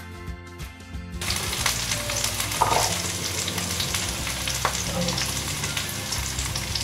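Chopped red onion and green capsicum frying in hot oil in a pan: a steady sizzle with a few sharper crackles. Background music stops about a second in, as the sizzling begins.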